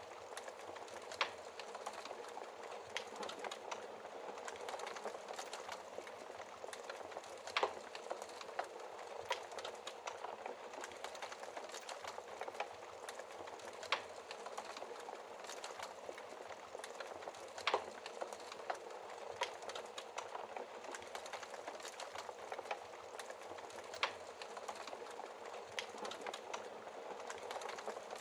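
Wood fire crackling in a fireplace: a steady hiss of burning logs with frequent small crackles and a few sharp, louder pops every several seconds.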